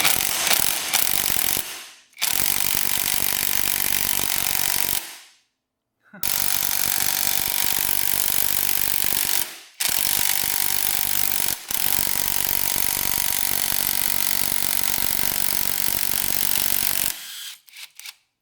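Power impact wrench hammering on a stubborn engine bolt, run in about five long bursts of two to five seconds with short pauses between.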